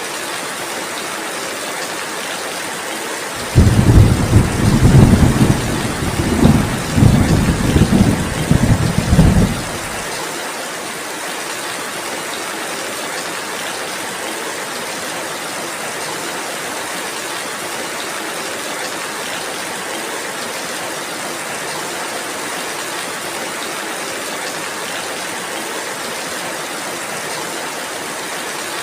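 Steady rain falling, with a long, rolling rumble of thunder that starts a few seconds in, swells several times over about six seconds and then dies away.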